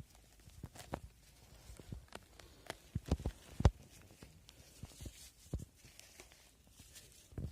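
Irregular light crackles and knocks of forest-floor litter and twigs disturbed close to the microphone, with a few louder knocks about three seconds in.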